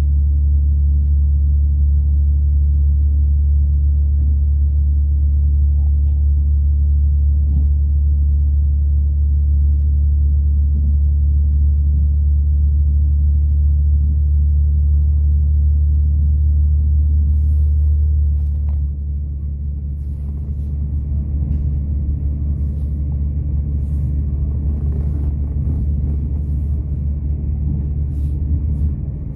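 Steady low rumble of a diesel passenger train running, heard from on board. About 18 seconds in the rumble drops a little, and light clicks and ticks come through over it.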